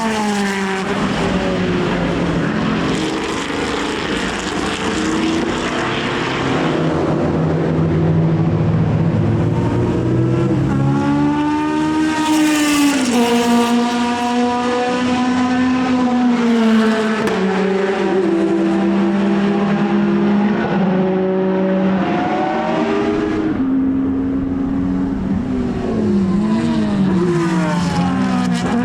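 Racing car engines running hard on track. The engine note steps in pitch with gear changes and swells and falls as cars pass.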